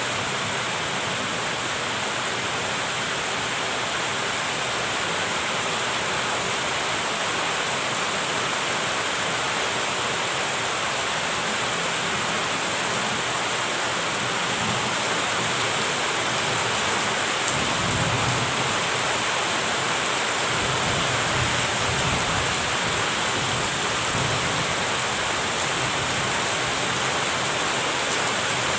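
Heavy rain falling steadily in an even hiss, with a low rumble of thunder rolling in a little over halfway through.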